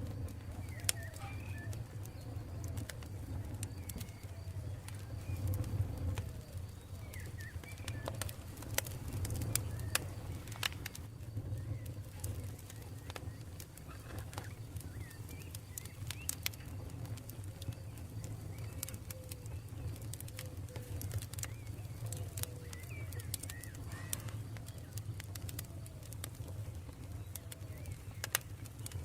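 Campfire burning, with frequent sharp crackles and pops over a steady low rumble. Birds call faintly in the background, short repeated chirping notes.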